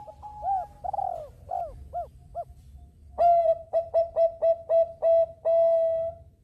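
Zebra dove (perkutut bangkok) cooing. First comes a few arched notes that rise and fall; about three seconds in it gives a loud run of short, evenly spaced coos that ends in one longer held note.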